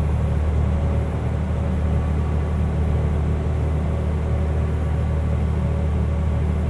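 Mercedes-Benz Unimog U500's turbo diesel engine running steadily at cruise in seventh gear, a constant low drone heard from inside the cab.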